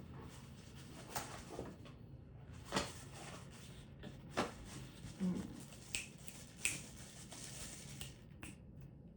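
English bulldog snorting and snuffling: a series of short sharp snorts about every second or so, with a brief low grunt about five seconds in.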